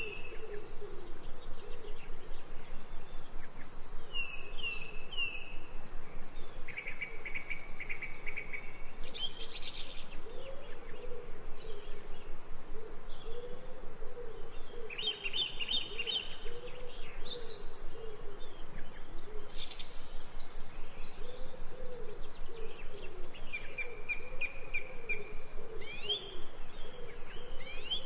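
Ambient birdsong: several birds chirping in short repeated high phrases and trills, over a lower call that repeats about once a second.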